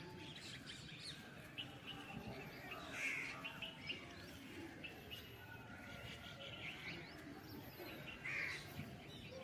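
Faint outdoor ambience of birds chirping and calling, with two louder calls about three seconds in and again near the end.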